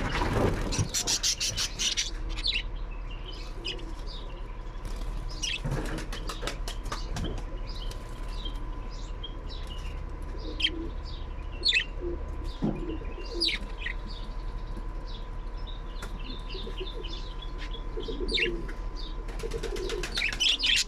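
Bird wings flapping rapidly for about two seconds, then scattered short high chirps and a few low coos from caged birds. A faint steady high tone runs underneath.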